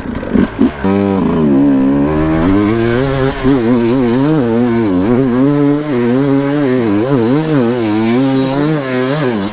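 Dirt bike engine pulling hard under load through a technical section, revs rising and falling repeatedly as the rider feeds in plenty of clutch to keep it on the boil. It starts about a second in after a few knocks and cuts off abruptly at the end.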